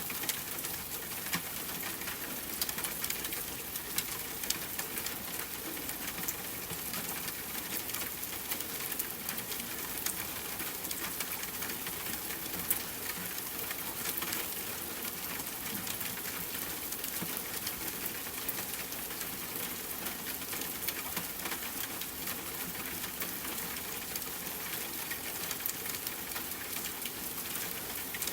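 Steady rain hiss mixed with frequent small crackles and pops of a campfire.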